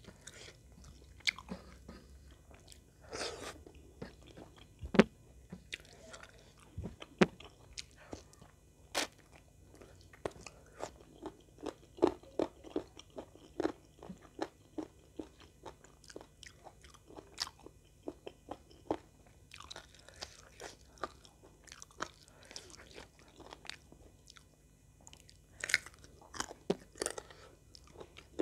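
Close-up mouth sounds of a person eating chicken by hand: chewing and biting with sharp, crunchy clicks at an irregular pace, a run of quick chewing clicks in the middle.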